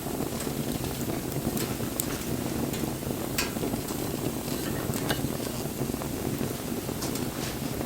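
Wood campfire burning: a steady low rush of flames with irregular sharp crackles and pops from the burning wood.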